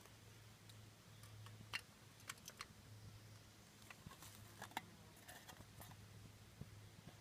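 Faint, scattered clicks and light knocks from small camping cook gear being handled, a few a second at times, over a low hum that comes and goes.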